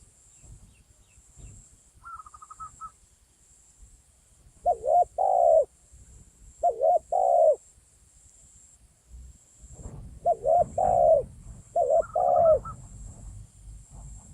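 Doves cooing: four low two-part coos of about a second each, the first two alone and the last two close together. A short higher trill comes about two seconds in and again near the end, over a steady faint high insect drone.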